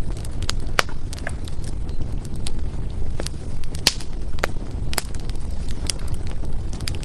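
Burning firewood crackling, with irregular sharp pops and snaps over a steady low rumble of the fire.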